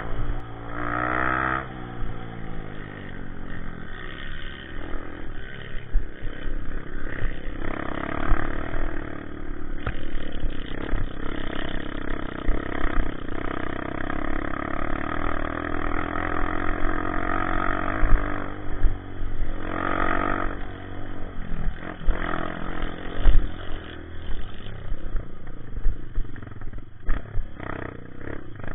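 Honda CRF150 dirt bike's single-cylinder four-stroke engine running under way, its pitch rising and falling as the throttle is opened and closed, with frequent short low thumps.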